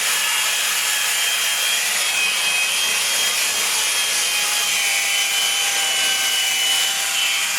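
A motor-driven car-cleaning machine running with a steady hiss and a high whine whose pitch drifts slowly lower.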